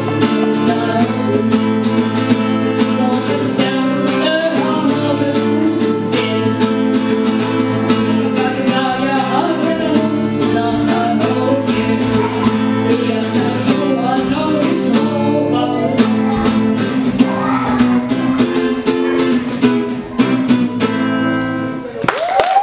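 Strummed acoustic guitars playing a rock song with a voice singing over them, a steady driving strum throughout. The music stops abruptly just before the end.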